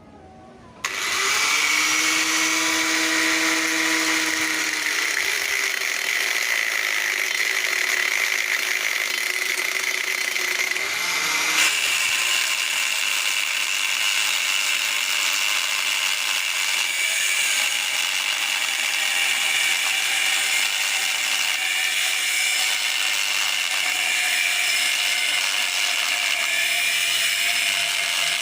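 Electric power tool switching on about a second in and running steadily with a high whine while working on a scrap refrigerator compressor's steel casing to get at its copper. The whine steps up in pitch about halfway through.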